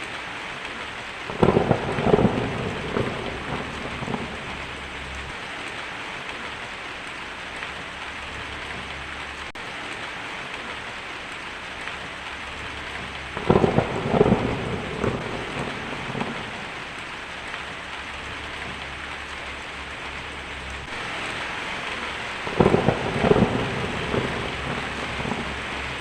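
Steady rain falling, with three rolls of thunder: one about a second and a half in, one about halfway through, and one near the end, each crackling and rumbling for a few seconds.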